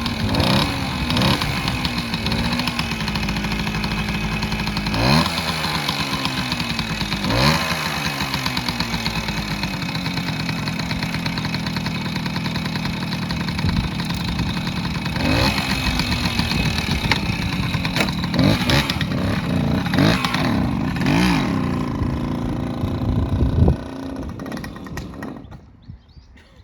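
1968 Suzuki Sportsman M15-2's 50cc two-stroke single-cylinder engine running just after a cold start, revved up and down several times. It cuts out suddenly near the end, a stall that the rider thinks came from being in the wrong gear.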